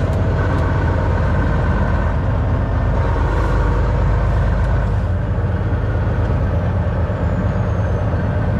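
Semi truck's diesel engine and tyre noise, a steady drone while cruising at about 60 km/h.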